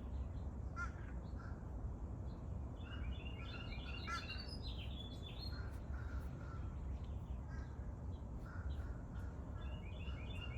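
Birds chirping and calling: bursts of short, quick notes and trills, busiest a few seconds in and again near the end, over a steady low hum.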